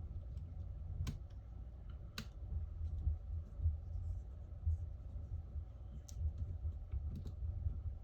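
Scattered small clicks and taps of small smartphone parts and a repair tool being handled and fitted, over a steady low hum.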